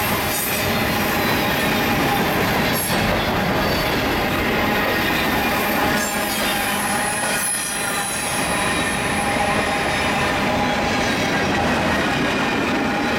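Freight train of covered grain hopper cars rolling past at close range: steady steel-wheel rumble on the rail with squealing wheels. A thin high squeal comes in about six seconds in and fades out around ten seconds.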